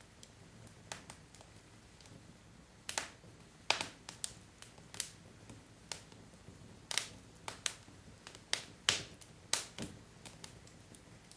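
Wood fire crackling: burning logs giving irregular sharp pops and snaps over a low steady hiss of the flames, busiest through the middle.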